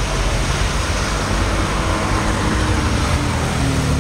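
A car engine running close by, loud and steady, with a faint tone that sags slightly in pitch through the middle.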